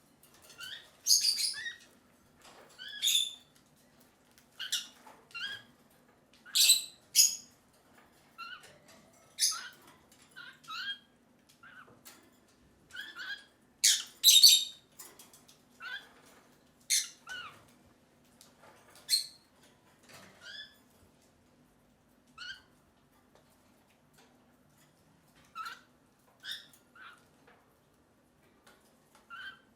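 Lovebirds giving short chirping calls in an irregular series, with several loud, harsh squawks in the first half. The calls grow sparser and quieter toward the end.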